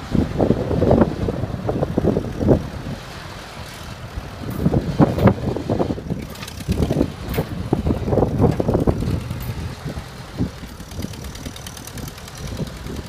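Engine of a 1948 Ford tractor running unevenly, its sound swelling and falling back in irregular bursts.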